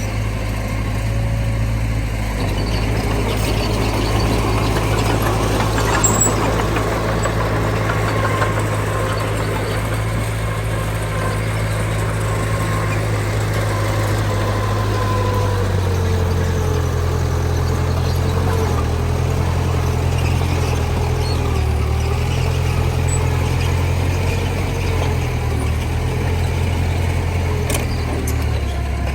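Heavy diesel engine of earthmoving machinery running steadily under load, with a faint wavering whine above the low hum.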